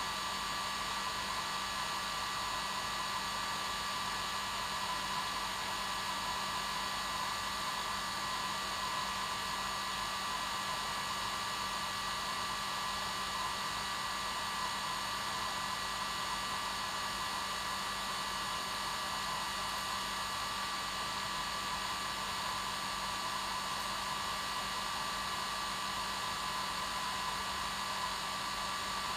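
Hair dryer running steadily on its normal setting: an even rush of air with a constant motor whine, used as white noise to help babies sleep.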